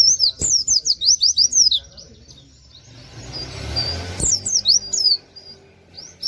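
Pleci (white-eye) singing fast runs of sweeping high notes. A burst of about two seconds, a pause, then a second burst of about two seconds.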